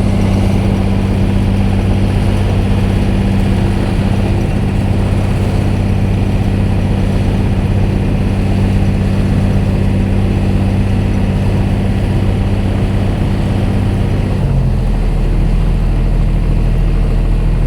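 A large ship's diesel machinery running with a loud, steady low drone. About fourteen and a half seconds in, its note changes and a deeper hum takes over, a change in engine speed or load.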